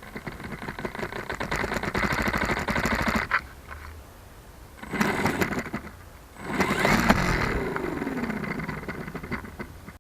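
RC Super Cub's brushless electric motor and propeller, heard through the tail-mounted keychain camera's microphone, run up in three bursts: about three seconds, a short one a little after the middle, then a longer one whose pitch falls away near the end.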